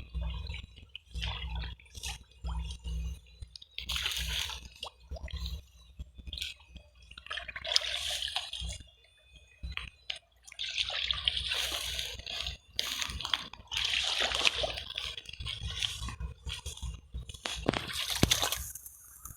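Shallow water splashing and sloshing in irregular bursts, as from wading and sweeping through a stream, with low thumps underneath.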